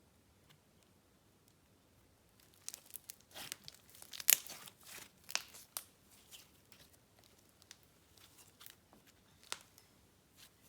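Swirled clay and icing slime being squished and stretched by hand, giving a run of small sticky crackles and pops. It starts after about two quiet seconds, is loudest about four seconds in, and thins out after that.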